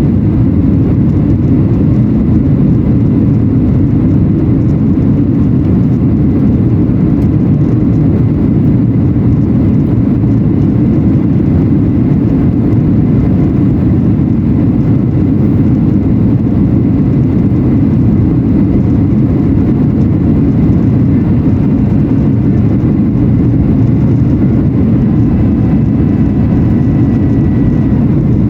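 Steady cabin roar of a Boeing 737-800 in flight, the noise of its CFM56 turbofan engines and the airflow, with a faint steady whine above it.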